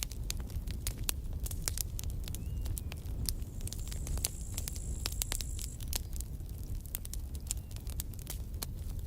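Campfire of burning wood crackling and popping in dense, irregular sharp snaps over a steady low rumble of the flames. A faint high thin whistle sounds for a couple of seconds midway.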